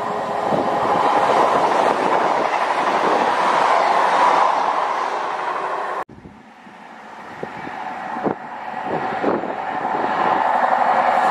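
A CrossCountry Voyager diesel multiple unit passing through at speed with a loud steady rush; it cuts off suddenly about six seconds in. Then an East Midlands Trains HST headed by a Class 43 power car approaches, its sound building steadily, with a few knocks from the wheels over the track.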